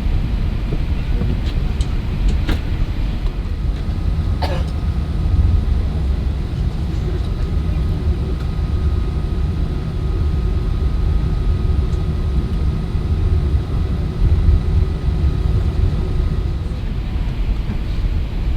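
Airbus A380 cabin noise heard from inside the cabin during departure: a loud, steady low rumble of the engines and the aircraft rolling, with a faint steady whine from about seven seconds in until shortly before the end. Two short knocks come in the first few seconds.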